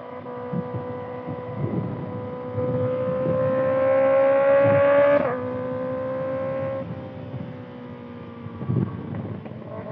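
2025 Kawasaki ZX-6R's 636 cc inline-four with a Voodoo slip-on exhaust, running high in the revs on the move. The note climbs and grows loudest about five seconds in, then drops suddenly and carries on at a lower, steadier pitch. Wind buffets the microphone.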